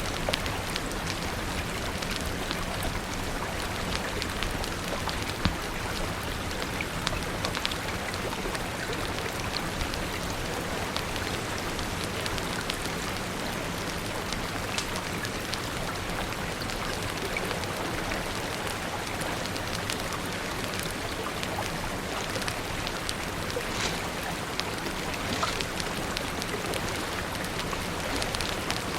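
Steady, even rainfall with scattered sharp ticks and taps through it.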